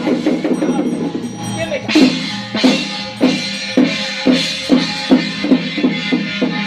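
Drum-led percussion music with a steady beat. Quick strikes about three times a second at first, then slower, heavier beats from about two seconds in.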